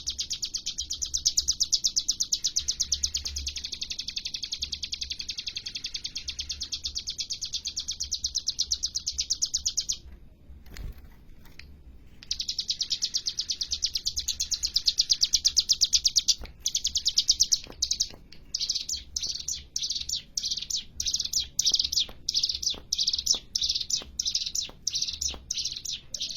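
Ciblek gunung (hill prinia) singing in full voice: a very fast, dry trill of high repeated notes. Two long runs are split by a short pause about ten seconds in, and near the end the song breaks into short rapid bursts, two or three a second.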